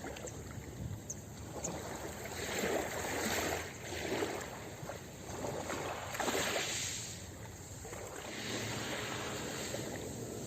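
Ocean waves breaking and washing on a beach, the surf swelling and easing several times.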